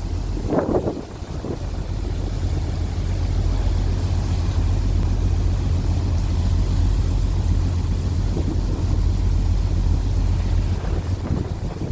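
Wind buffeting the microphone aboard a ferry under way: a steady low rumble.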